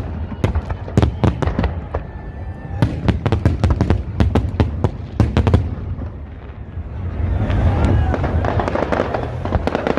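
Fireworks display going off: a rapid string of sharp bangs and crackles through the first five or six seconds, then a denser din with people's voices from about seven seconds in.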